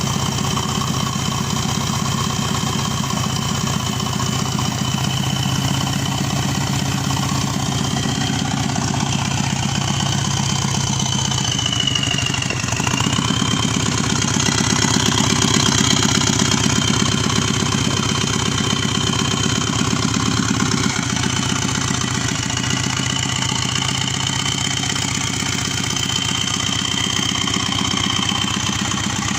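Subaru EJ255 2.5-litre turbocharged flat-four idling steadily, running out of the car on a stand. A thin, steady high whistle rides over the engine note and dips in pitch briefly about twelve seconds in; the engine gets slightly louder for a few seconds in the middle.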